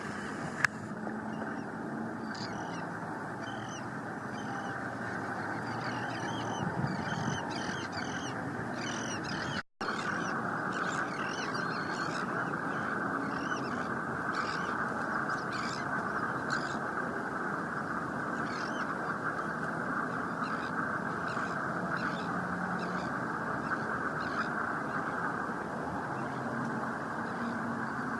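Many short, repeated calls from a flock of water birds over a steady rushing background noise, with a momentary dropout about ten seconds in.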